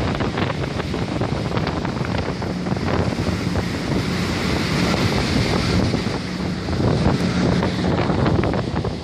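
Category 4 hurricane wind blowing hard and steadily, buffeting the microphone, with many small sharp ticks and knocks scattered through the rush.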